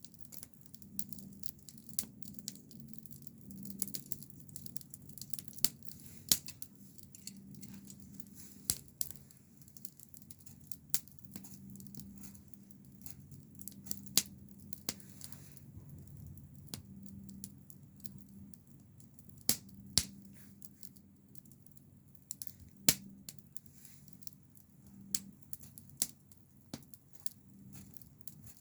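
Wood campfire crackling, with irregular sharp pops and snaps, a few of them much louder than the rest.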